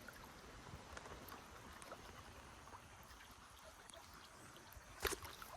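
Faint flowing creek water, with a single short sharp knock about five seconds in.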